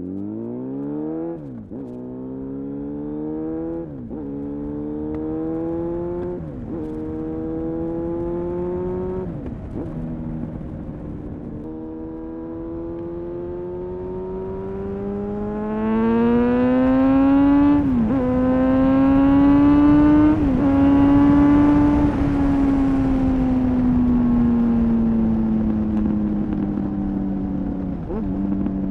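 2000 Honda CBR-929RR Fireblade's inline-four engine through an Erion full racing exhaust, accelerating and shifting up through the gears. The pitch climbs and drops sharply at each shift, four times in the first ten seconds. Then comes a longer, louder pull with two more quick shifts, settling into a steady run with slowly falling pitch.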